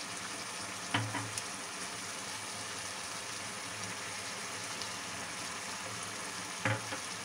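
Boneless chicken pieces frying in oil in a wok, a steady sizzle. A brief knock sounds about a second in and another near the end.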